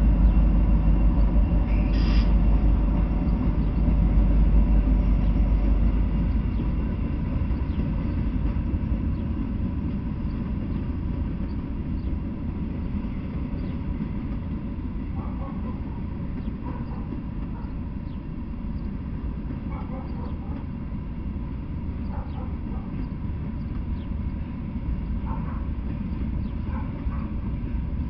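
Norfolk Southern freight train passing: a heavy low rumble, loudest in the first few seconds as the diesel locomotive goes by, then the steady rumble of covered hopper cars rolling past on the rails.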